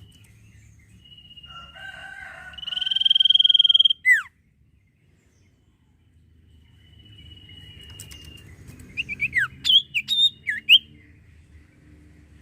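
Common iora (cipoh) singing: long drawn whistles, the first swelling into a fast warble and ending in a sharp falling note, then after a short pause another long whistle and a quick run of swooping notes.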